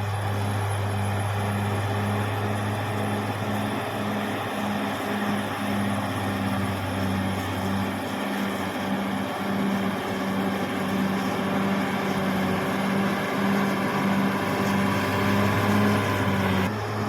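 Caterpillar D6R XL bulldozer's diesel engine running steadily, with an even pulsing about twice a second. The sound changes abruptly just before the end.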